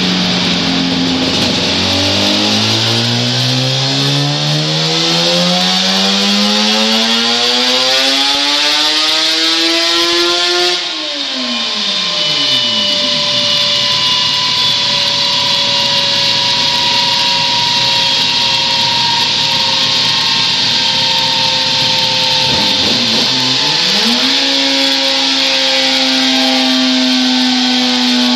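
Suzuki RG500 Gamma's square-four two-stroke engine on a dyno run: the revs climb steadily under load for about ten seconds, then the throttle shuts and the revs fall away, leaving a slowly falling whine. Near the end the engine picks up again and holds steady revs.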